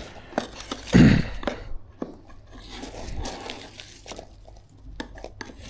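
Glazing tape being peeled and torn off a window frame: rustling, crinkling tearing with scattered small clicks and a louder bump about a second in.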